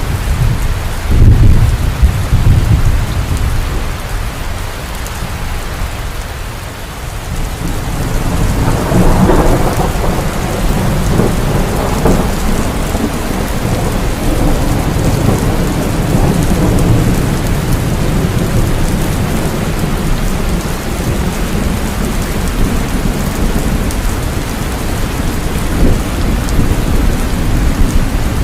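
Heavy rain falling steadily, with rolling thunder: a short low rumble about a second in, then a longer, louder roll from about eight seconds in that rumbles on through most of the rest.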